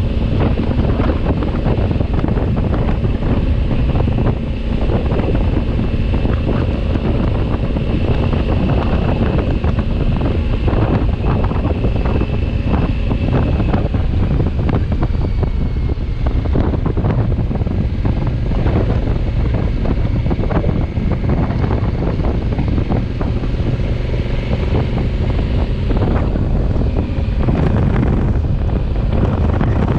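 Wind buffeting the microphone on a moving Honda Africa Twin motorcycle, a steady heavy rush with the bike's engine running underneath.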